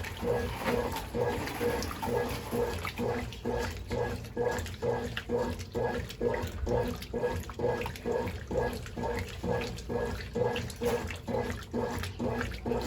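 Brastemp Ative 11 kg BWL11 top-loading washing machine agitating its load: water and laundry slosh in even, rhythmic strokes, about two and a half a second. The agitation is what the repairer calls poor.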